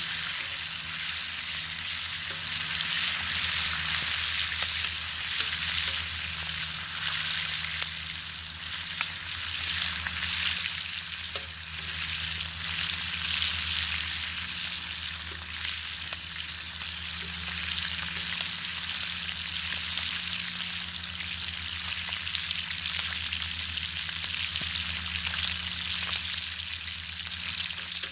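Bacon sizzling over a fire: a steady, dense sizzle full of fine pops and crackles, with a low steady hum underneath.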